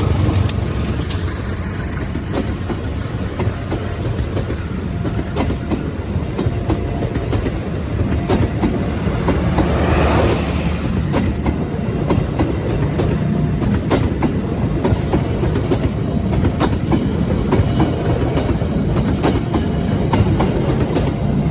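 A train passing close by: a steady rumble of rolling stock with the wheels clicking over the rail joints, swelling about halfway through.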